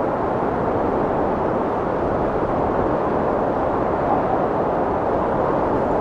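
Strong wind blowing steadily, a dense low rushing noise that swells gently and eases.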